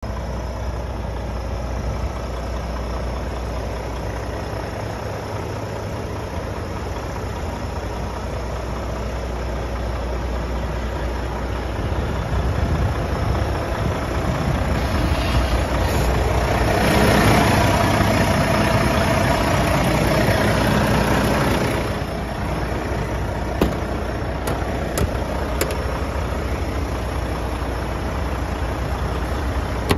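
Volvo FH 540's 13-litre straight-six diesel running steadily at idle. About halfway through it grows louder for around five seconds, then drops back, and a few sharp clicks follow.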